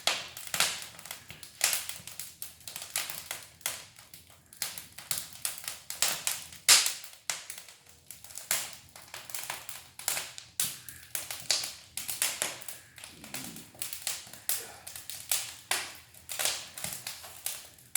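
Wood fire in a large brick fireplace crackling, with frequent irregular sharp pops; one loud snap comes a little before the middle.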